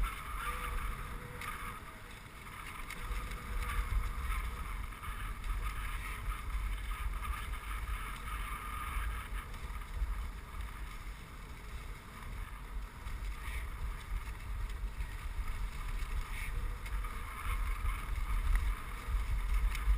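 Dog sled running along a snow trail behind a four-dog husky team: a steady hiss of the runners on snow, with low wind rumble on the microphone.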